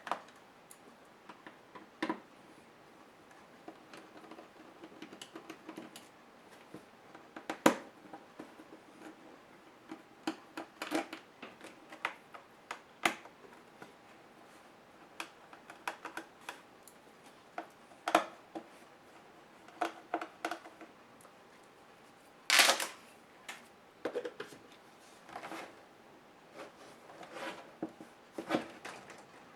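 Irregular clicks, taps and light clatters of hands and small tools working on the plastic case and parts of a Compaq HP 6720s laptop being taken apart, with one louder, brief clatter about three quarters of the way in.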